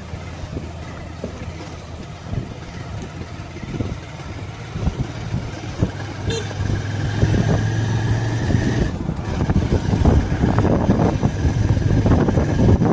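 Motorcycle engine running under way, with road and wind noise, growing louder about halfway through.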